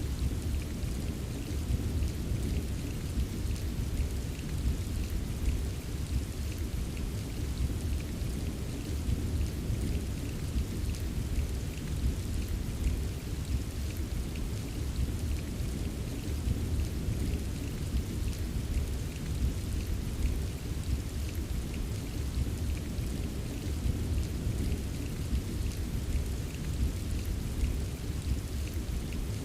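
Steady rain falling, with fine drop patter over a constant deep low rumble of distant rolling thunder; no single sharp thunderclap stands out.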